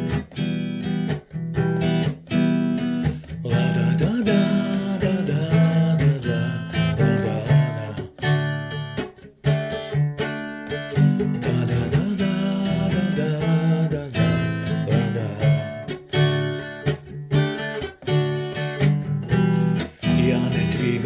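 Acoustic guitar music, strummed with a steady rhythm of chords: the instrumental introduction before the first sung verse.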